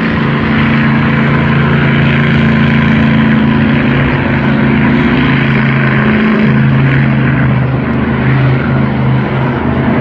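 Monster truck engine running loud and steady under throttle, its note shifting slightly about six seconds in.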